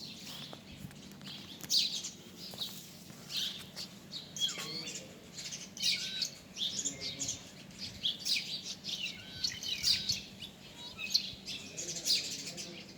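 Many birds chirping and calling over one another in a dense run of short, high notes, with a few lower, sliding whistled notes among them.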